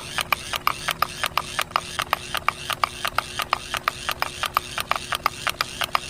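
Homemade model rice mill's small motor-driven mechanism clicking rapidly, about five or six clicks a second, over a faint steady hum.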